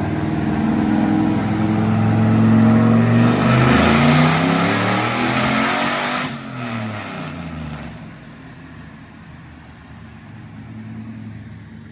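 Turbocharged Gen 4 6.0-litre LS V8 making a wide-open dyno pull, likely in third gear: the revs climb with a loud rush for about six seconds. The throttle then shuts abruptly and the revs wind down to a low rumble.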